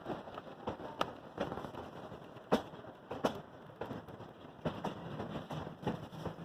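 Railroad passenger car rolling along the track, with irregular sharp clacks and knocks from the wheels and coupled cars over a steady rumble.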